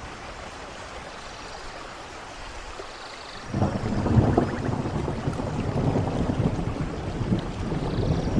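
Steady rain hiss. About three and a half seconds in, a low rumble of thunder sets in suddenly and keeps rolling, growing louder.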